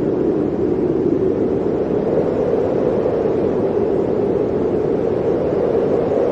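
Blizzard wind blowing as a steady, deep rush with no gusts or breaks.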